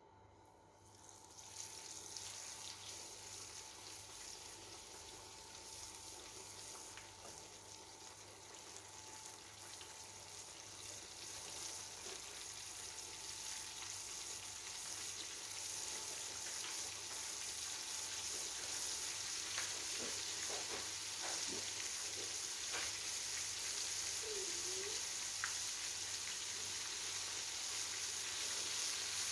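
Flour-coated chicken shallow-frying in hot oil in a small cast iron pan: a steady sizzle that sets in about a second in and grows gradually louder. A few light clicks in the second half.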